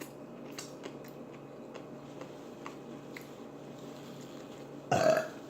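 Faint small clicks of eating, then a short burp near the end.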